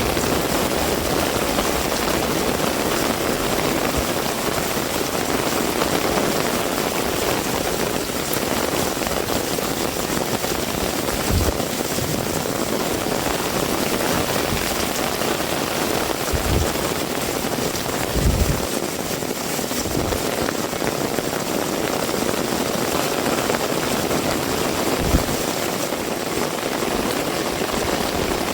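Heavy rain falling steadily in an even hiss, with a few dull low thumps scattered through it.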